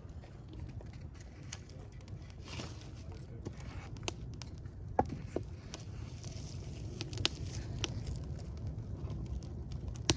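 Wood fire burning with a low steady rumble and scattered crackles and pops; the sharpest pops come about five seconds in and near the end.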